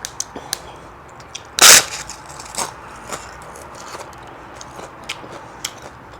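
Close-miked eating: small wet mouth clicks and chewing, with one loud crunching bite about a second and a half in.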